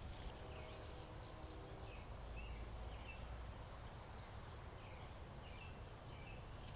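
Faint outdoor ambience: a bird giving repeated short chirps over a low rumble, with a faint steady hum in the first two seconds.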